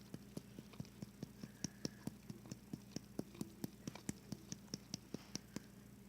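A spoon stirring slime in a mixing bowl, knocking against the bowl in sharp, regular clicks about five times a second, over a faint steady hum.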